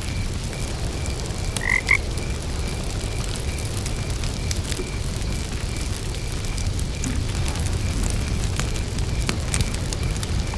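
Campfire burning with a low rumble and scattered crackles, under crickets chirping in an even pulse. About two seconds in, a frog gives two short croaks.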